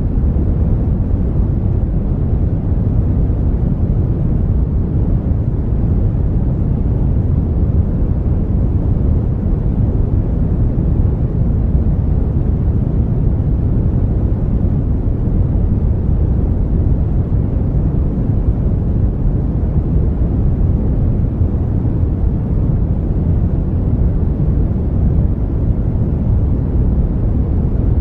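Brown noise: a steady, deep rumbling hiss with most of its energy in the lows, falling away in the highs, unchanging throughout.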